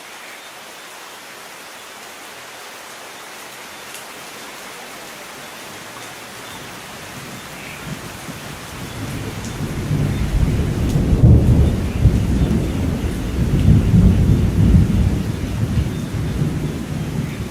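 Steady rain hissing, with a long roll of thunder building from about eight seconds in and rumbling loudest through the second half.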